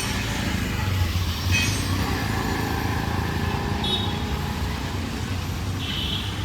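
Street traffic: a motor vehicle's engine running close by with a steady low rumble. Two short high chirps sound, one about four seconds in and one near the end.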